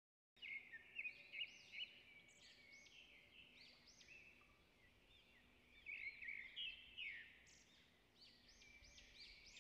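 Birds chirping and calling, many short high calls overlapping, starting suddenly about half a second in and busiest about a second in and again around six seconds.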